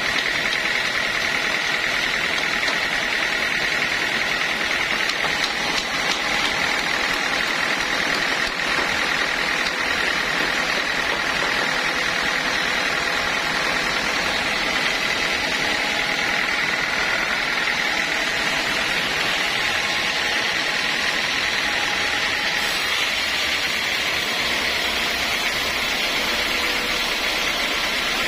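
Sawmill machinery running steadily, a continuous mechanical noise with a steady high whine.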